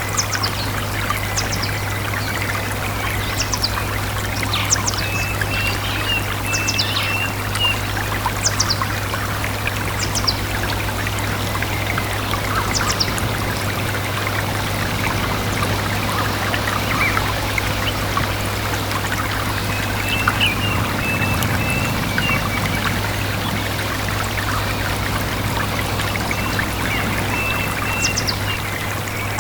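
Small stream trickling and pouring steadily, with birds calling over it: short high notes dropping in pitch, repeated every second or two, and a few brief runs of lower chirps.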